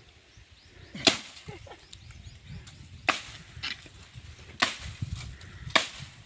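Four sharp chopping strikes of a blade cutting into bamboo, one to two seconds apart.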